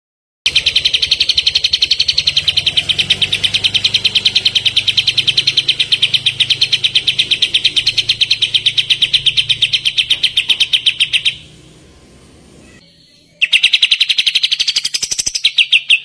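Kapas tembak songbird giving its fast rapid-fire trill, an even machine-gun run of high, sharp notes, several a second. It breaks off for about two seconds, then starts again.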